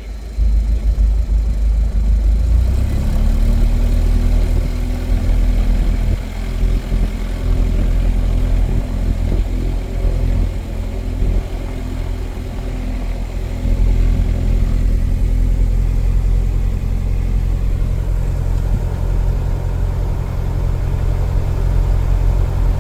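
Cessna 177 Cardinal's piston engine and propeller running, a steady low drone that dips in level a few times.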